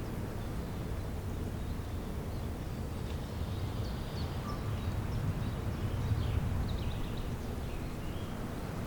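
Outdoor spring ambience: a steady low rumble, with faint, short bird chirps from about three seconds in.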